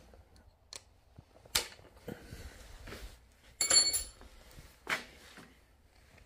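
Steel engine studs with nuts and washers being handled and threaded in by hand: scattered metallic clicks and clinks, the loudest a short cluster with a brief high metallic ring a little past halfway.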